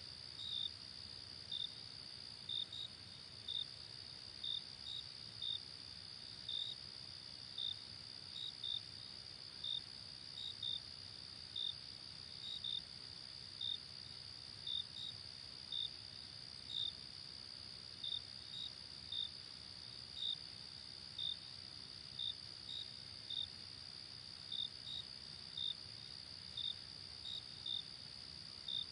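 Crickets chirping: short high chirps about once a second, some in quick pairs, over a steady high-pitched insect trill.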